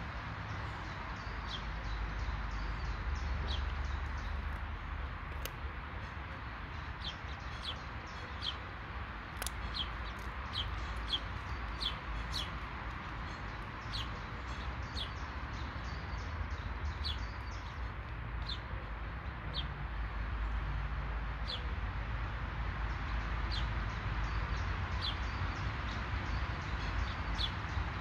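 Birds chirping: short, high, slightly falling notes, roughly one a second and irregular, over a steady outdoor hiss and a low rumble.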